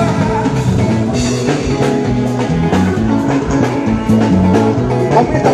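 A live band playing an instrumental passage at a soundcheck, with a steady drum kit beat, a moving bass line and guitar.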